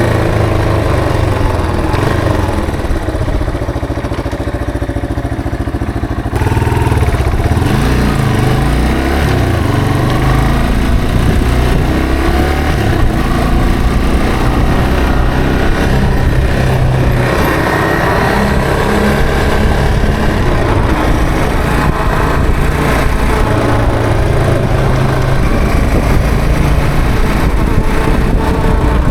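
Yamaha TW225's single-cylinder engine, heard from the rider's seat while riding. The engine note falls and runs quieter for the first several seconds, then picks up sharply about six seconds in and rises and falls with the throttle.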